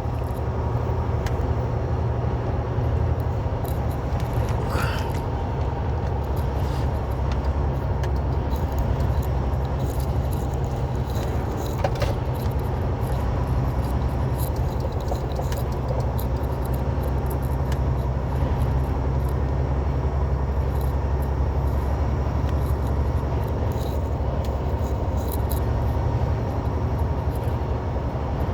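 Inside a semi truck's cab while driving: the diesel engine and road noise make a steady low drone, with scattered light rattles and clicks from the cab.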